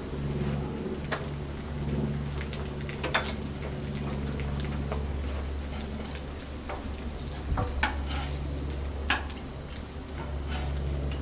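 Breaded chicken strips frying in oil on a Blackstone flat-top griddle: a steady sizzle scattered with pops and crackles, over a low steady hum, with a few sharper clicks as metal tongs turn the strips.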